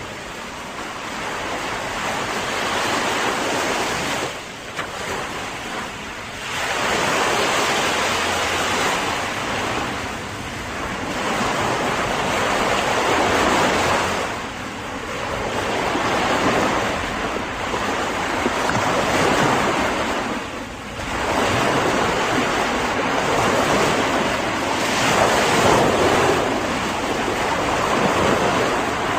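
Sea surf: waves breaking and washing in, the rush swelling and falling back in surges a few seconds apart.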